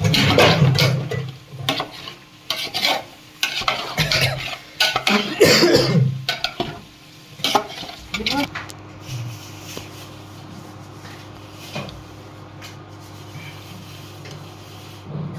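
Chicken pieces sizzling as they fry in spiced masala in a pot, stirred with a metal spoon that clatters and scrapes against the pot. After about eight seconds the stirring stops, leaving a quieter steady hiss with a low hum.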